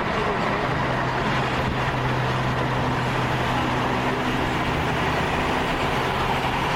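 A motor vehicle running steadily: an even, unchanging engine hum under a wash of road-like noise, with no revving.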